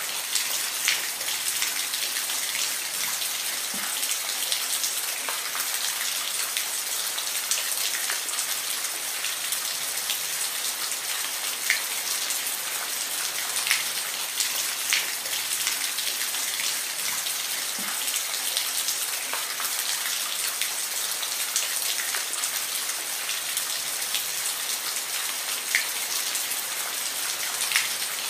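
Steady rain falling, a constant hiss with scattered louder drips and drops landing close by.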